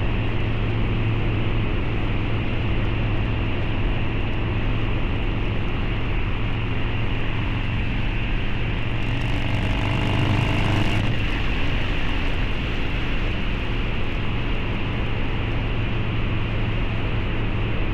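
Harley-Davidson Low Rider's 129 cubic inch V-twin, breathing through a Two Brothers Racing exhaust, running at a steady, even pace under way. About halfway through, a brief hiss and a slight rise in pitch come in for a couple of seconds, then settle back.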